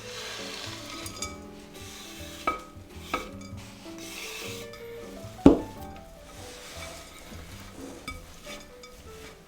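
Utensil stirring and scraping dough in a mixing bowl, with a few sharp knocks against the bowl, the loudest about five and a half seconds in. Soft background music plays throughout.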